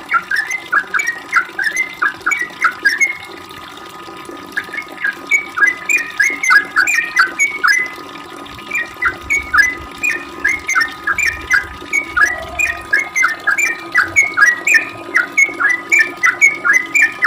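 Yellow-vented bulbul (trucuk) singing a long rapid run of short, downward-slurred chirps, several a second, breaking off briefly twice before starting again.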